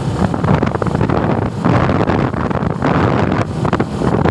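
Heavy wind buffeting on the microphone of a moving motorcycle, with engine and road noise beneath it.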